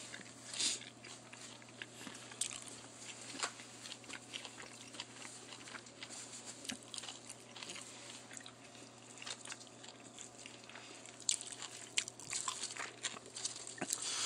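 A person chewing and biting food close to the microphone: soft crunches and small mouth clicks scattered throughout, getting busier and louder near the end.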